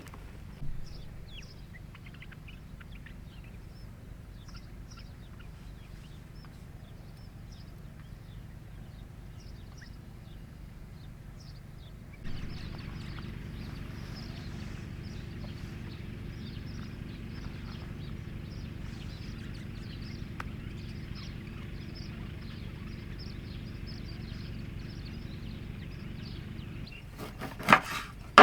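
Outdoor ambience: a steady low rumble with scattered short, high chirps of birds, the rumble growing louder about twelve seconds in. A few sharp knocks near the end.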